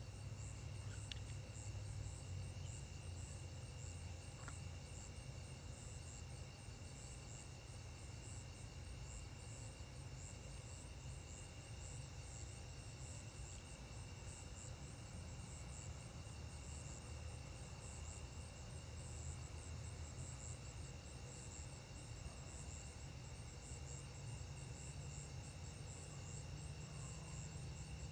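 Night chorus of crickets and other insects: a steady high trill with a faster, higher pulsing over it, faint, over a low steady rumble.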